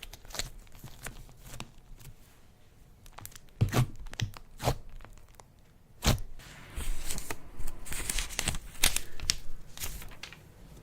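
Slime being worked by hand, giving irregular crackles and sharp pops, with a denser run of crackling in the second half.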